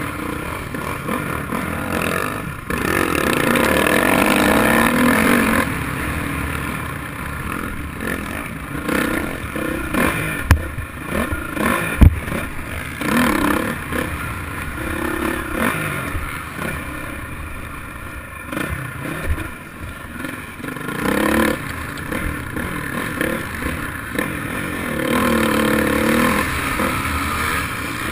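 Motocross dirt bike engines revving up and down as the bikes ride the track, louder as they pass close. There are a couple of sharp knocks about ten and twelve seconds in.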